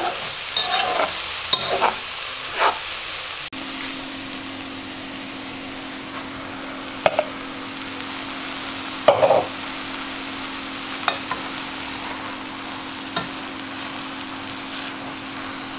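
Chopped onion, carrot and celery sizzling as they fry in a nonstick pot, with a spatula stirring and scraping in short knocks. A steady low hum joins about three and a half seconds in, and there is a louder knock about nine seconds in as raw beef mince is tipped in from a bowl.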